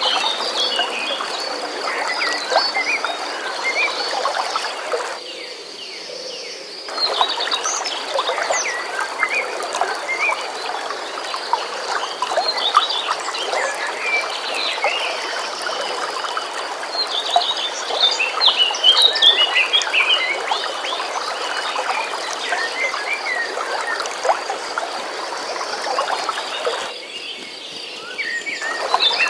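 Flowing stream water with birds chirping and singing over it, against a steady high trill. The water sound drops away briefly twice, around five seconds in and near the end.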